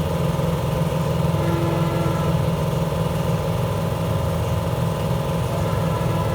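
A motor running steadily without change: a low, fast-pulsing hum with a few faint steady tones above it.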